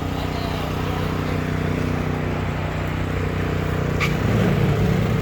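An engine-like machine runs with a steady low hum. There is a sharp click about four seconds in, after which the low rumble grows louder and rougher.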